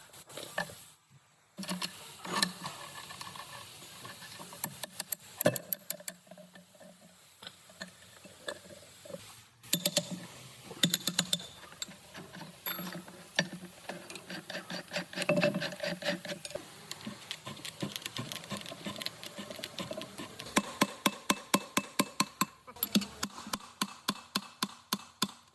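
Workshop work noise: runs of sharp metallic clicks and clatter from hand tools on metal, with stretches of rapid, evenly spaced ticking.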